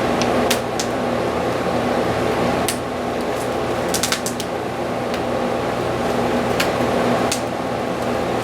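Steady machine hum of shop ventilation or a fan, with a low electrical buzz, and about eight light sharp clicks and crackles scattered through it as the vinyl stencil and its application film are handled on the wing.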